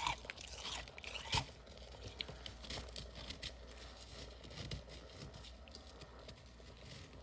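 Freezer frost being crunched and chewed in the mouth: a burst of loud crunches in the first second and a half, then a run of softer crackles.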